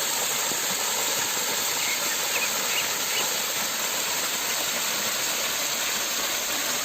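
A steady, even rushing hiss at constant level, with a few faint short high chirps about two to three seconds in.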